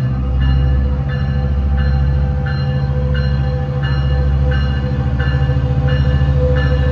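Diesel locomotive engine rumbling steadily while a bell rings about every two-thirds of a second.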